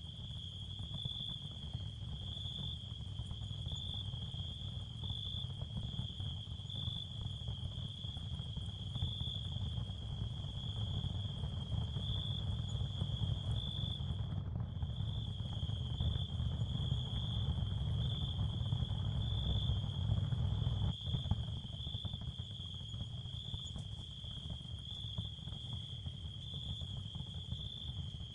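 Ambient therapy sound field with no narration: a steady, high, cricket-like chirring held near one pitch, swelling gently about once a second, over a low rumble. The high chirring drops out for a moment about halfway through.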